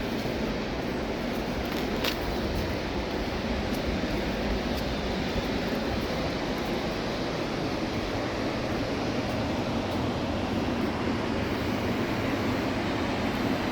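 Steady rushing noise with no rhythm or pitch, and a single faint click about two seconds in.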